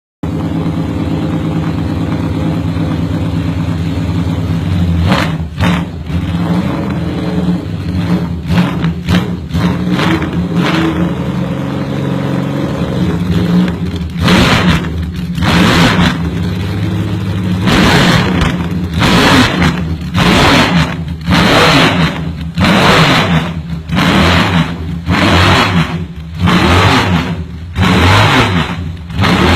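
Benelli Sei inline-six motorcycle engine idling, then revved again and again with quick throttle blips. The blips come sparsely at first, then settle into a steady run of short revs about once a second, each one falling back toward idle.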